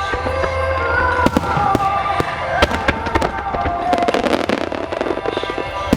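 Fireworks display going off, sharp bangs from about a second in that thicken into dense crackling around four to five seconds in, over held notes of music.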